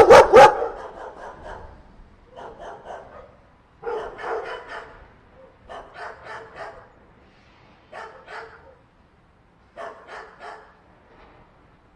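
Dog barking in short groups of two or three barks, one group every second or two, loudest right at the start.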